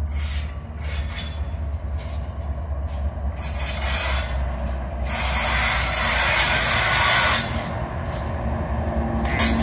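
Freight train passing: steel wheels clicking over rail joints under the steady low rumble of approaching CN diesel locomotives, with louder rushing rail noise about five seconds in and again near the end as the locomotives close in.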